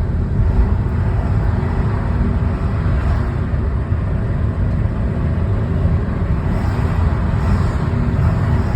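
Steady low rumble of a car driving along a city road: engine and tyre noise without pauses.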